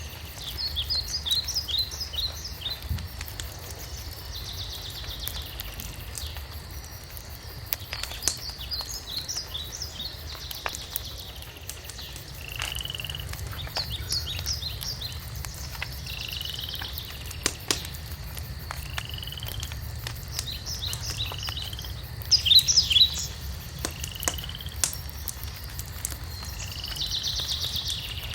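Wood fire crackling with scattered sharp pops over a low steady rumble, while birds call again and again: quick high trills and short slurred whistles.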